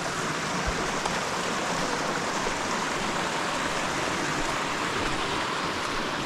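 Steady rushing of a mountain trout stream flowing over rocks.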